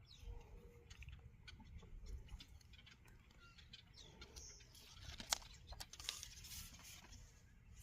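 Faint scratching and rustling of vinyl decal transfer paper being rubbed and peeled on a painted wood surface, with one sharp click about five seconds in.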